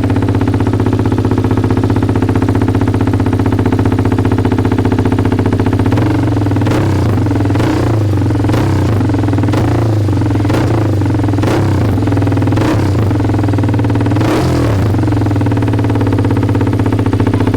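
TVS Apache RR310's single-cylinder engine idling through an aftermarket SC Project short-can exhaust, with a deep, bassy note. From about six seconds in it is broken by short sharp bursts roughly once a second.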